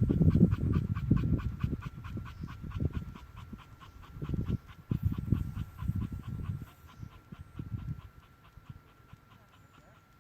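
Dog panting quickly and steadily, about five breaths a second, fading away near the end, over irregular low rumbles.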